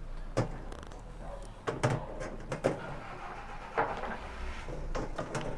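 White decorative pebbles clicking and knocking against each other as they are set in place by hand, a handful of separate clicks a second or so apart.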